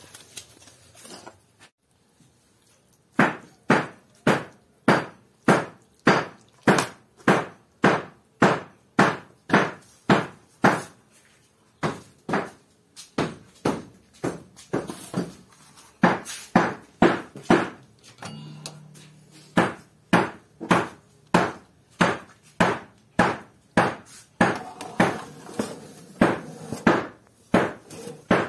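Hand hammer striking in a steady rhythm, about two blows a second, with two short pauses partway through: roughening the concrete floor so the fireplace bricks will bond to it.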